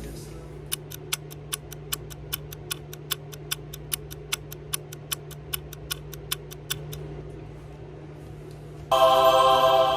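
Rapid, even ticking, about four ticks a second for some six seconds, over a faint steady hum; music comes in loudly near the end.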